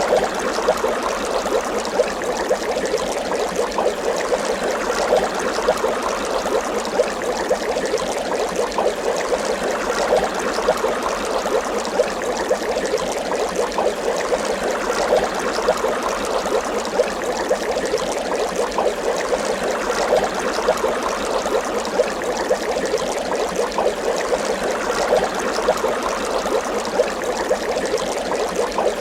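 Water bubbling steadily, a dense run of small bubbles popping without a break.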